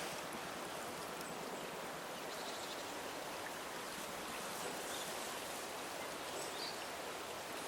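Steady outdoor background hiss with a few faint, brief high chirps, likely small birds in the distance.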